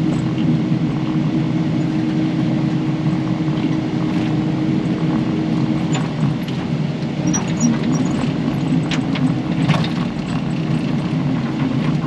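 Kubota KX080 excavator's diesel engine running steadily as it digs, with a few short knocks and scrapes from the bucket working sticky clay.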